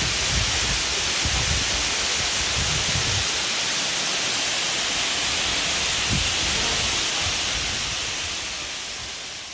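Waterfall's water pouring down: a steady rushing hiss with some low bumps on the microphone in the first few seconds, fading out near the end.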